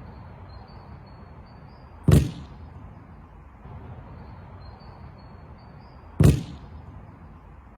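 A football thudding against the ground and foot twice, about four seconds apart, as it is dropped to bounce and then trapped dead, over a steady background hiss.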